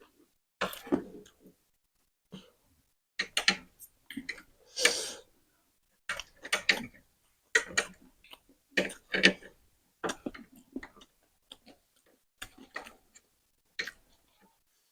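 Close-up mouth sounds of someone chewing spicy noodles: irregular clusters of wet clicks and lip smacks, coming roughly once a second with short silences between.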